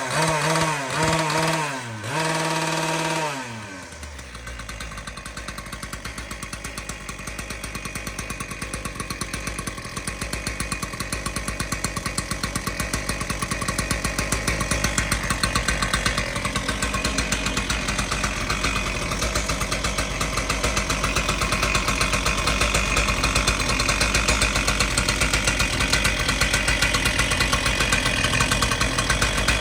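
Two-stroke engine of a Shindaiwa ECL7412S engine cutter running steadily with a fast, even firing rhythm, growing gradually louder. It is preceded by a pitched sound that falls in pitch and stops about three and a half seconds in.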